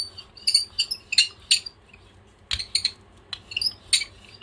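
Hand brayer rolling acrylic paint out on a Gelli Plate: a string of short, high squeaks and clicks coming in uneven clusters as the roller goes back and forth.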